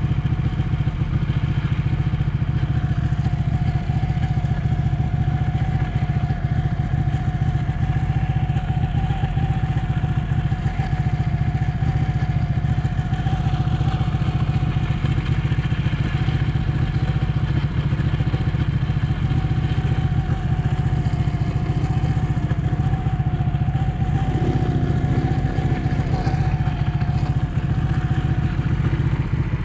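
Ducati 1199 S Panigale's 1198 cc Superquadro V-twin engine running at steady revs, its pitch holding nearly constant.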